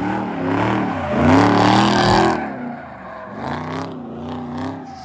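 Car engine revving hard, its pitch rising and falling again and again. A loud rushing noise swells with it between about one and two and a half seconds in.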